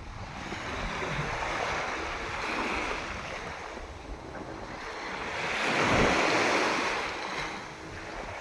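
Gentle sea waves washing onto the beach on a calm day, swelling loudest about six seconds in, with wind rumbling on the microphone.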